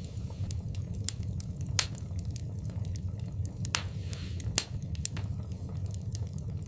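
Wood fire burning in a fireplace: a steady low rumble of flames with irregular sharp crackles and pops, the loudest about two and four and a half seconds in, and a brief hiss near four seconds.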